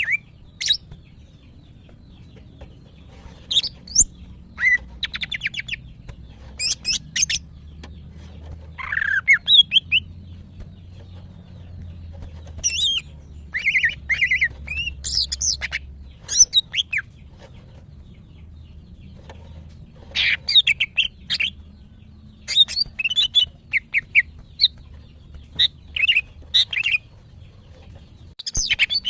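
Female green leafbird (cucak ijo) in breeding condition, calling for males: scattered bouts of sharp chirps, quick trills and squeaky notes, with short pauses between them.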